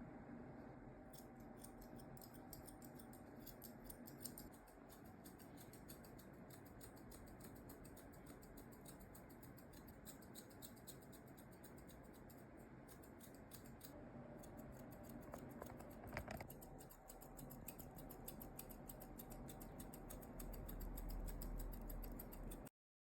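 Grooming scissors snipping through a toy poodle's coat in rapid, repeated cuts; the sound cuts off suddenly near the end.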